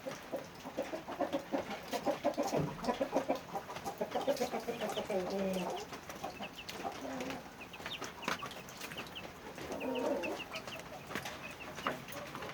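Chickens clucking: a run of quick repeated clucks over the first half and another short burst about ten seconds in, with short high chirps in between.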